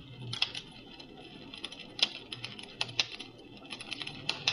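Campfire crackling track played through a SoundMe noise machine's small speaker: irregular sharp pops and crackles, a few of them louder, over a faint low hum.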